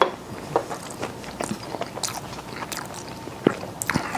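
A person chewing a mouthful of coconut curry shrimp ravioli, with irregular short clicks and a little scraping, likely a fork on the plate.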